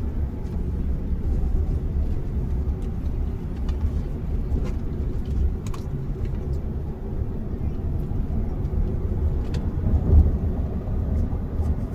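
Steady low road and engine rumble heard from inside a moving vehicle's cabin, with a few faint small clicks and a slightly louder swell about ten seconds in.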